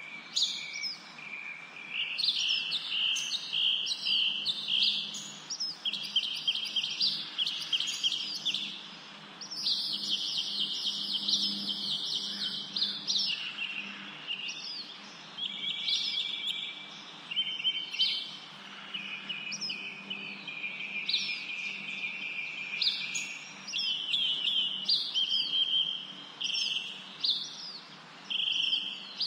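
Several songbirds singing at once, a continuous chorus of high chirps, quick trills and short repeated notes overlapping one another, over a faint steady low hum.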